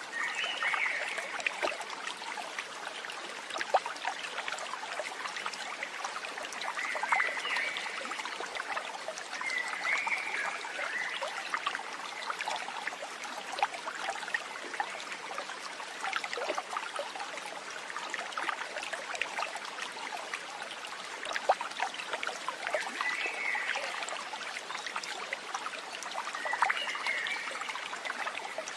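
Running water trickling and splashing steadily, with a few short chirping calls now and then.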